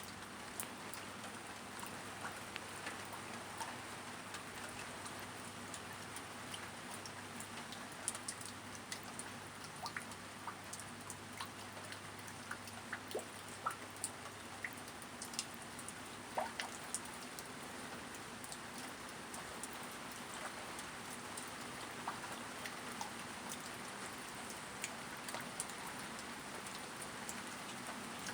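Steady rain at night, with scattered sharp drops ticking on a hard surface among the even hiss; no thunder.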